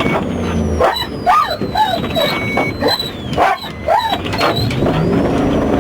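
A dog barking and yelping repeatedly, short rising-and-falling cries, over a vehicle engine's low running rumble.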